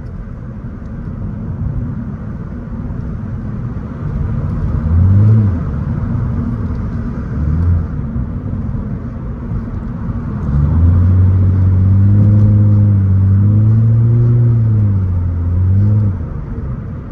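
Straight-piped Nissan Altima exhaust over a steady road rumble while driving, with the gas pumped: the exhaust note rises and falls in short blips about five and seven seconds in, then in a longer rising-and-falling rev from about ten to sixteen seconds in.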